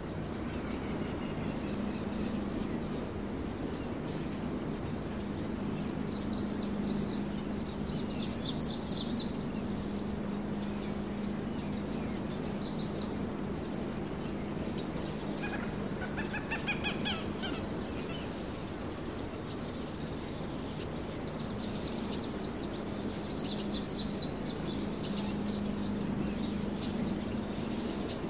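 Small songbirds giving rapid high trills, one burst about nine seconds in and another near twenty-four seconds, with a few softer calls in between, over steady outdoor background noise and a low hum.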